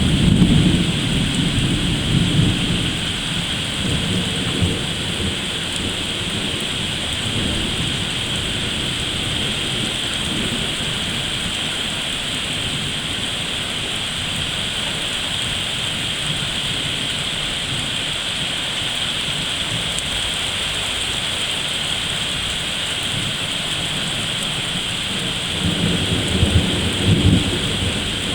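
Heavy rain falling steadily during a severe thunderstorm, with a rumble of thunder fading out over the first few seconds and another brief rumble of thunder near the end.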